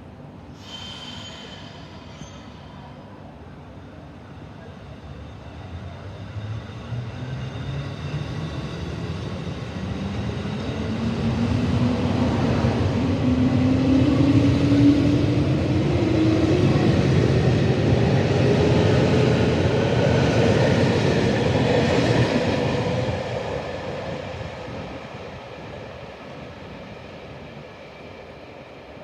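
Electric local train pulling out of the station: the traction motors' whine rises steadily in pitch as it gathers speed, with wheels running over the rails. It grows loud as the cars pass and fades as the train moves off.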